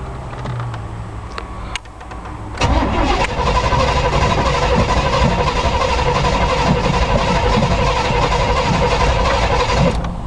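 Chevy 350 small-block V8 of a 1986 K5 Blazer being cranked over by the starter, a steady whine over uneven low pulsing, in a hard start after the truck has sat for two weeks with the engine running on only four cylinders. The cranking starts abruptly about two and a half seconds in and stops abruptly near the end.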